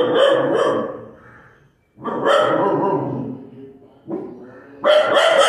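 Puppies barking and yapping in clusters of rapid high barks, a new burst starting about two seconds in and another near the end, with short lulls between.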